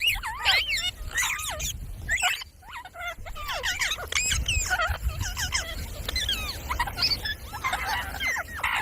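Pet parrot chattering and warbling: a busy run of quick squeaky calls that swoop up and down in pitch, with short pauses between phrases.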